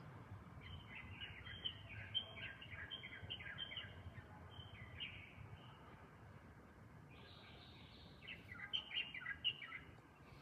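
Light-vented bulbul calling in quick runs of chirping notes: a longer bout in the first half and a shorter one near the end, over a faint low background rumble.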